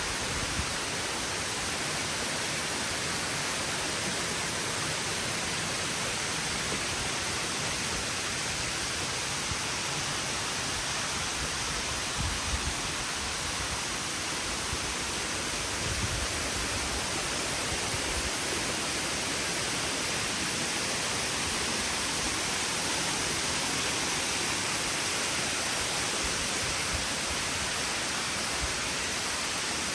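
Steady rush of falling water from a waterfall, an even unbroken hiss, with a few dull low thumps about twelve and sixteen seconds in.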